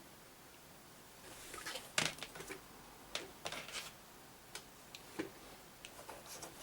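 Light clicks, taps and knocks of hands handling hardware on a bench, starting about a second in and going on irregularly.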